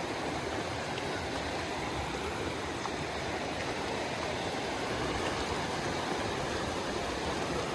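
Small stream flowing: a steady, even rushing of water.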